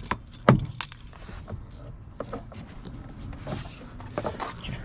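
Handling noise from working a tie-down cord and its gear: one sharp knock about half a second in, then scattered light clicks and clinks.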